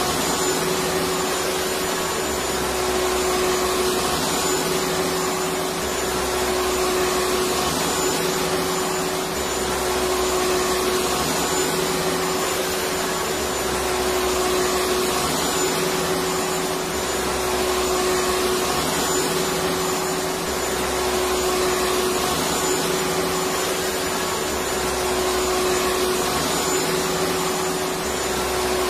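Electric vacuum cleaner running steadily, a continuous rushing drone with a steady motor hum and a faint high whine above it.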